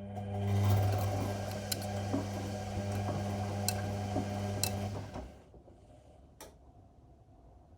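Whirlpool Indiana 1400 washing machine's motor turning the drum during the wash, a steady hum with clicks and knocks from the tumbling laundry, stopping about five seconds in; a single click follows about a second later.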